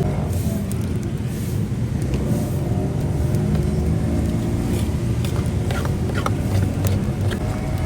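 A motor vehicle's engine running steadily at low speed, with a few light clicks scattered through it.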